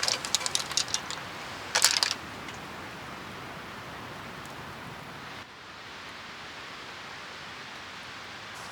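A few quick clinks and rattles of mussel shells and a utensil in a Dutch oven, twice in the first two seconds, followed by a steady hiss.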